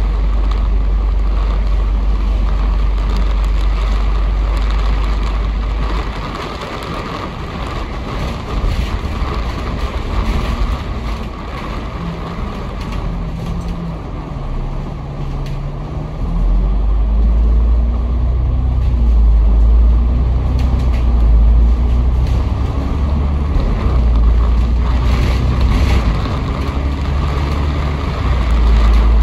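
Franchised bus running, heard from inside the passenger cabin. The deep engine rumble eases off about six seconds in, with the engine note shifting in pitch, then grows heavy again from about sixteen seconds as the bus pulls harder.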